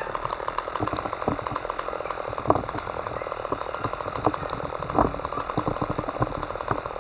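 Dense, irregular crackling and popping from cooking over a campfire, with a steady high-pitched insect drone underneath.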